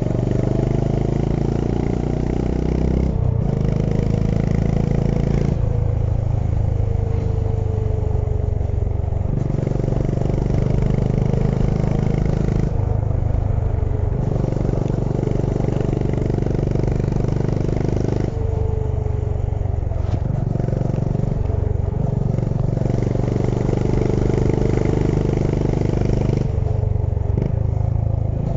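Honda H'ness CB350's air-cooled single-cylinder engine running under way. Its note shifts every few seconds as the throttle is opened and closed.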